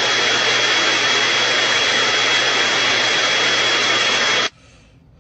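Steady machine noise: a small motor's fan rush with a thin high whine over it. It cuts off suddenly about four and a half seconds in.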